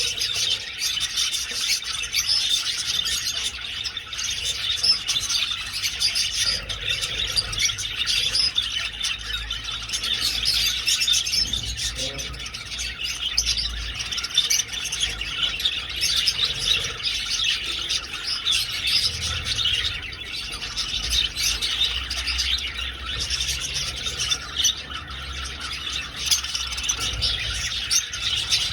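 A flock of budgerigars chattering and chirping continuously, many birds warbling and squawking at once in a dense, unbroken din.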